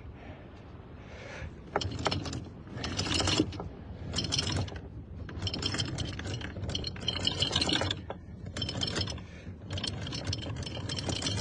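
Anchor chain rattling out over the bow as the anchor is let down, in several stop-start bursts of clattering links, starting about two seconds in.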